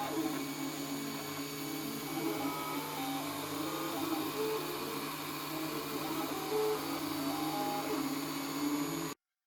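FDM 3D printer laying down the first-layer outline of a print: its stepper motors whine in short tones that jump between pitches as the print head moves, over a steady hum. The sound cuts off abruptly near the end.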